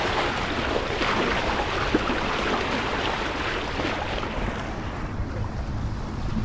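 Wind buffeting the microphone over the rush of water along the hull of a sailing yacht under way, easing a little in the last couple of seconds.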